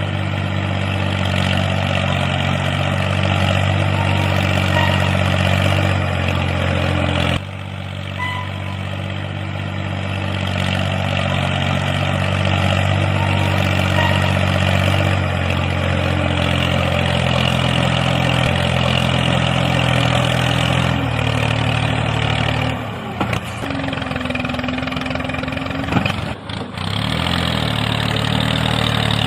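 A motor running steadily with a low hum, dropping briefly about seven seconds in and changing pitch with several short dips near the end.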